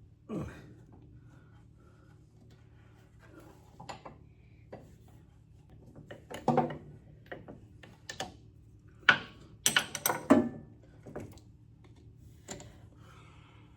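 Hand tools and bolts clinking and clanking against the steel parts of a baler's drive during bolt removal: scattered metallic knocks with pauses between, with the sharpest cluster of clanks about nine to ten and a half seconds in.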